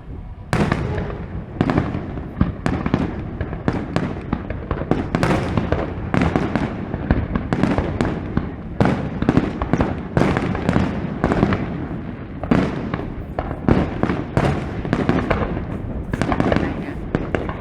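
Fireworks display: aerial shells bursting in quick succession, a steady barrage of bangs about one to three a second, starting about half a second in.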